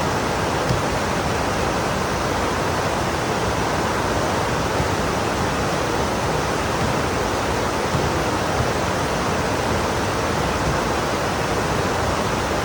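Heavy rain pouring down as a steady, even hiss, with a few faint ticks of single drops.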